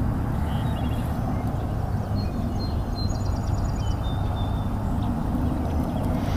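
Faint songbird chirps and short trills, a cluster of them in the middle, over a steady low rumble.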